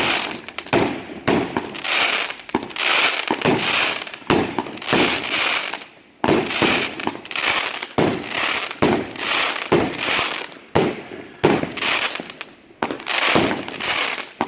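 Consumer firework cake firing a rapid, irregular string of aerial shots, about one or two loud bangs a second, each followed by a crackling hiss, with a brief pause about six seconds in.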